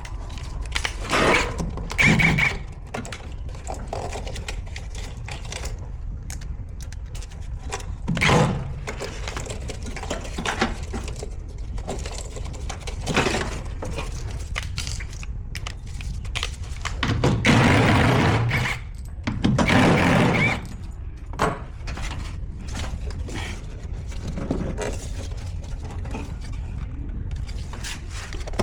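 Intermittent knocks, thunks and scrapes of washing machine parts being handled and worked on during disassembly, with the loudest clatter near the end, over a steady low rumble.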